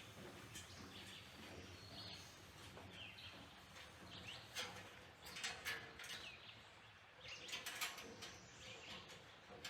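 Quiet woodland with faint bird chirps here and there, and footsteps scuffing on steps in a few clusters.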